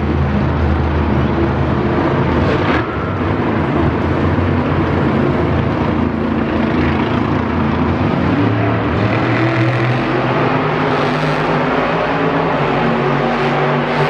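Monster truck's supercharged V8 engine running loud and revving, its pitch rising and falling as the truck performs.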